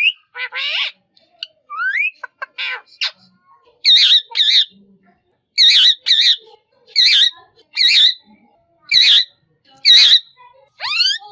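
Green parrot calling: a few rising whistled notes and scratchy calls, then from about four seconds in a run of short, harsh, wavering squawks, one or two a second.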